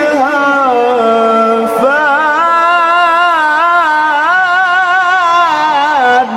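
A man's voice reciting the Quran in melodic tajweed style, drawing out one long ornamented phrase of held notes with wavering pitch. It breaks off just before the end.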